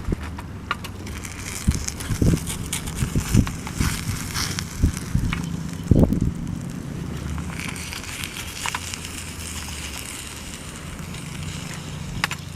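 Small wood fire in a mini fire stand crackling, with scattered sharp snaps and a few low knocks of handling, the loudest about six seconds in.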